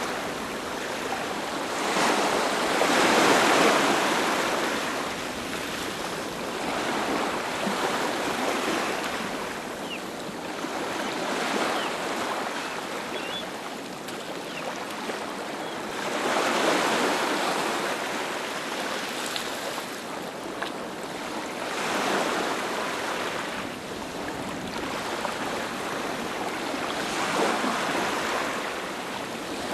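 Sea waves breaking and washing up on a beach, a surge about every five seconds with the hiss of surf between them.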